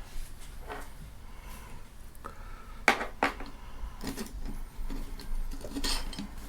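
Small hard parts being handled: irregular clicks and clinks, the sharpest about three seconds in and again near the end, consistent with metal or plastic camera mount brackets being fitted or set down.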